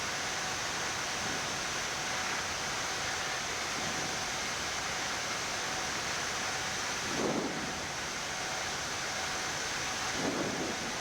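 Steady rushing hiss of a Boeing 787 flight deck's ambient noise with a faint steady tone underneath. Two short muffled thumps come about seven and ten seconds in.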